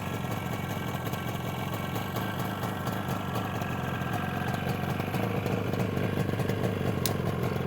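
1973 Yamaha RD350's air-cooled two-stroke parallel-twin engine idling steadily, warming up after a cold start.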